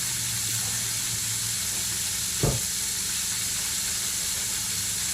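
Chicken frying in hot oil, a steady sizzle over a low hum, with one sharp knock about halfway through.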